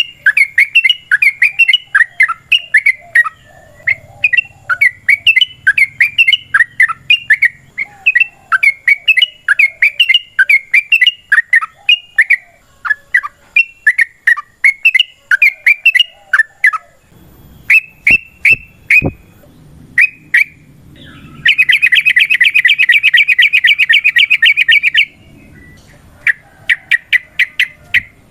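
Yellow-vented bulbul (trucukan) singing loud, rapid chattering phrases of bubbly notes. About two thirds of the way through it gives a few sharp single notes, then a fast, continuous trill lasting about three and a half seconds, before the quick notes resume.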